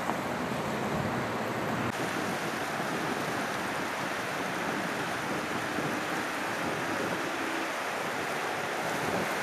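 Steady rush of floodwater pouring through a breached river levee.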